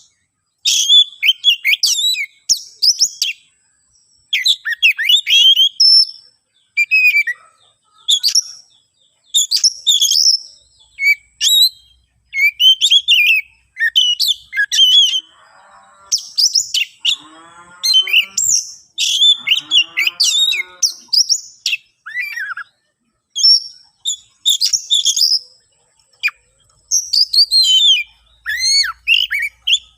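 Oriental magpie-robin (kacer) singing loudly in aggressive, fight-ready song, used as a recording to provoke rival birds. It delivers rapid phrases of varied whistles and chirps, a second or two each, separated by short pauses, with a few lower-pitched calls about halfway through.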